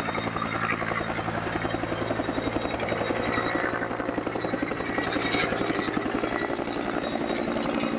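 Bell helicopter running, its rotor blades beating in a rapid, even rhythm over a steady engine whine.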